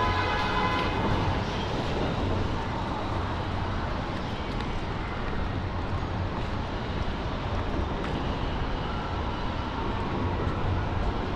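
Steady hiss of traffic and rain on a wet city street. A held, multi-pitched horn-like tone fades out in the first second or so.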